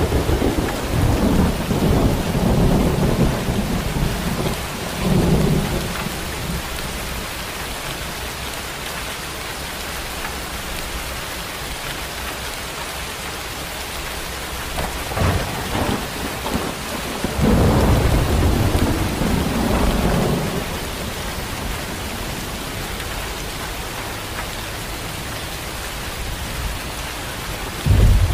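Steady rain in a thunderstorm, with deep rolls of thunder over it: a long rumble in the first six seconds, a short one about fifteen seconds in, another long one from about seventeen to twenty-one seconds, and a new one starting at the very end.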